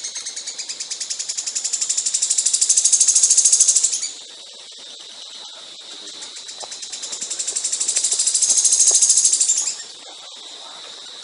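A songbird's rapid, high-pitched pulsed trill delivered in long phrases that swell and fade. It breaks off about four seconds in, returns more softly and builds again, then drops away near the end.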